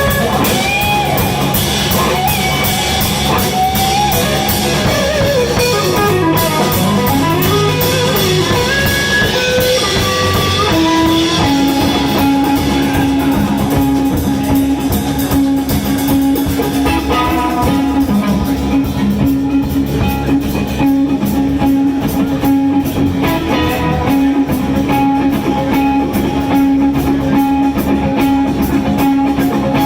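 Live blues band playing: an electric guitar lead with bent, sliding notes over drums and bass, settling about a third of the way in into one long held note that rings on over the beat.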